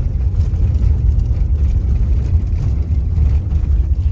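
Steady low rumble of a car driving along a road, engine and tyre noise heard from inside the vehicle.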